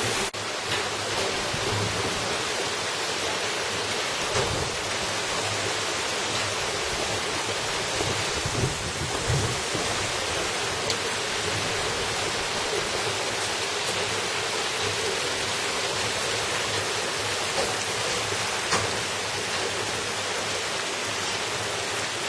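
Mountain valley stream rushing steadily, a dense even wash of water noise.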